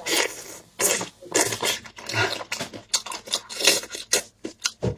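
Close-miked wet chewing and lip-smacking of someone eating chicken, a quick, irregular run of loud smacks and squelches. Near the end, gloved hands tear at the whole chicken.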